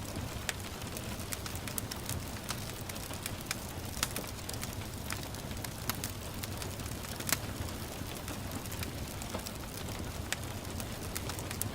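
Wood fire crackling, with irregular sharp pops scattered through, the loudest about four and seven seconds in, over a steady hiss of light rain.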